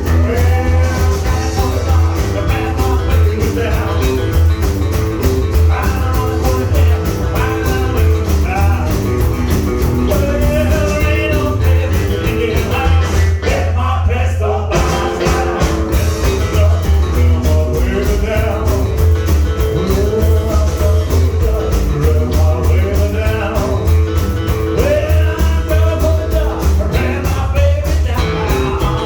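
Rockabilly band playing a rock-and-roll number: a steady driving beat under a stepping bass line, with melodic lines above it throughout.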